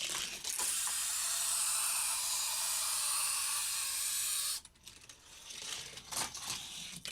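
Hot Wheels die-cast car's wheels rolling fast along plastic track, a steady high hiss that cuts off suddenly a little past the middle, followed by a few light clicks and knocks of the car on the track.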